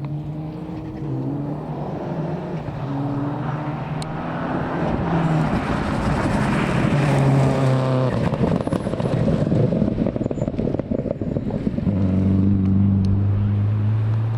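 Rally car engine revving hard through several gear changes as the car goes past close by, with a burst of tyre and loose-stone noise as it passes. Near the end, engine revs are held high and steady.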